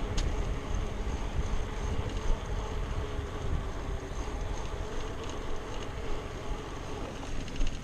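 Wind rushing over the microphone of a camera carried on a moving bicycle, a steady low rumble with the hiss of tyres on the road and a few faint ticks.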